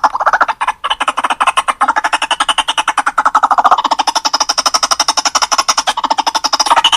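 White-breasted waterhen (ruak-ruak) calling: a rapid, even chatter of harsh notes, about ten a second, with a brief break about a second in.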